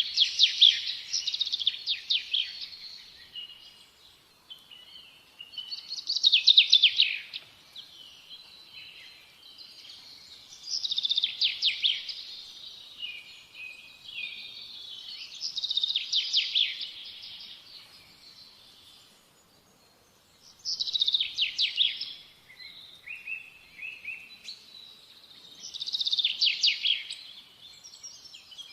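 Birds singing: a rapid, high trilling phrase that repeats about every five seconds, each burst lasting a second or two.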